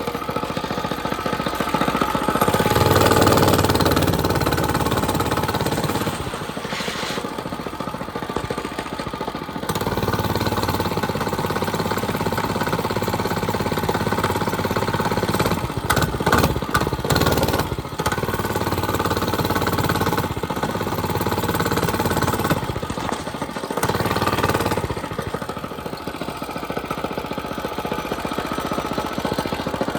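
Mini bike's small engine running as it is ridden, its speed and loudness rising and falling, loudest about three seconds in. There is a quick cluster of sharp knocks around the middle.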